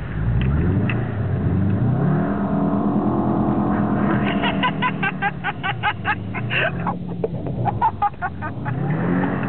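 Car engine revving up under hard acceleration while sliding on snow, its pitch rising for about two seconds, holding, then falling away as the throttle lifts. Midway through, a quick run of short, high, pulsing ticks comes at about six a second, followed by a few irregular ticks.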